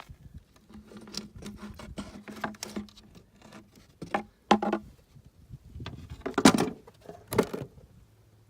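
Irregular knocks, clicks and scrapes of a wooden nuc hive box and its frames being handled, with a louder clatter about six and a half seconds in.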